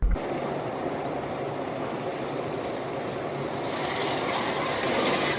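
Steady vehicle running noise that starts abruptly and grows slightly louder towards the end.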